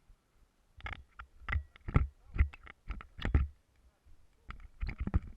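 A run of irregular knocks and thumps with a low rumble, several a second, falling off in the middle and starting again near the end.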